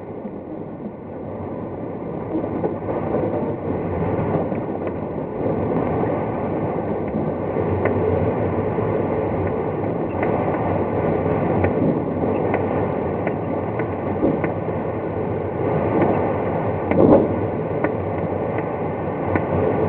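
Steady rush of air around a glider's cockpit in flight on aerotow, swelling in the first few seconds, with scattered light clicks and a brief louder gust-like swell near the end.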